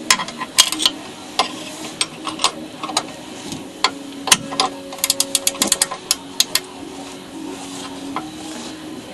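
Metal hand tools clicking and knocking against metal parts during engine installation work. About five seconds in, a quick, even run of clicks like a socket ratchet being worked.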